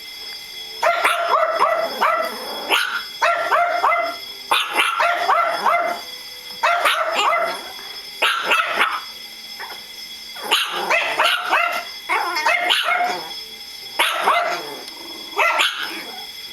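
Pug barking in repeated bursts of three or four quick barks, a burst every second or two, over a steady high tone from a fire alarm being tested.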